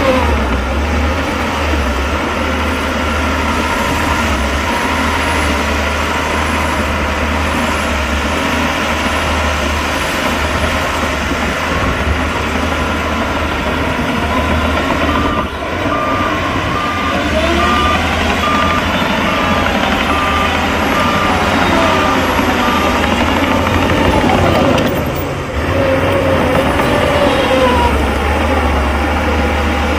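Heavy machinery engines running, with slow rises and falls in engine pitch. Past the middle, a reversing alarm beeps in an evenly spaced run for several seconds.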